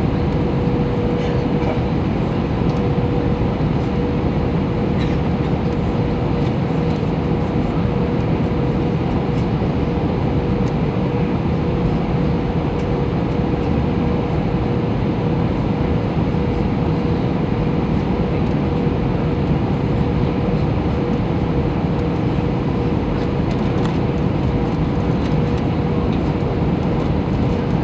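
Steady cabin noise inside an Airbus A321 airliner in flight: even engine and airflow rumble with a steady hum tone held above it.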